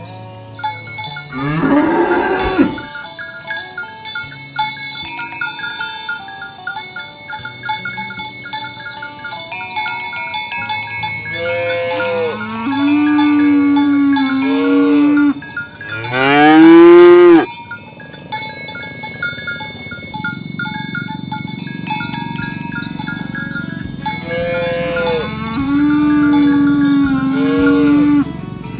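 Cattle mooing several times, the loudest call about halfway through, with cowbells ringing steadily behind the calls.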